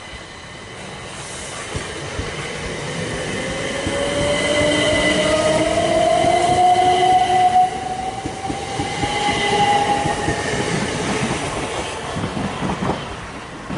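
A multiple-unit passenger train passing along the platform. It builds up, is loudest as the coaches go by, then fades as it pulls away. A motor whine climbs in pitch through the middle, and a quick run of wheel clicks over the rail joints comes in the second half.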